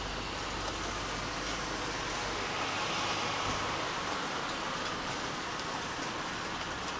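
Steady rain falling, an even hiss that swells a little midway, with a low rumble underneath that fades out about a third of the way in.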